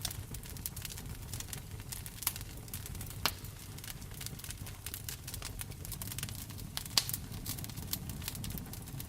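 Fireplace wood fire crackling, with many small sharp pops and a few louder snaps about two, three and seven seconds in, over a low steady rumble.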